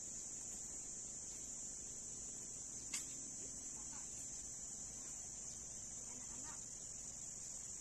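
Steady, high-pitched insect chorus, with a single sharp click about three seconds in.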